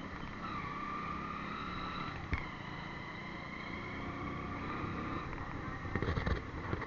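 Motorcycle engine running steadily on the move, with a steady whine over a low rumble. There is a sharp click a little over two seconds in and a few knocks near the end.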